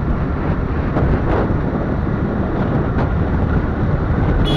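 Heavy wind rush on the microphone and road noise from riding on a motorcycle along a highway. A vehicle horn starts sounding just at the end.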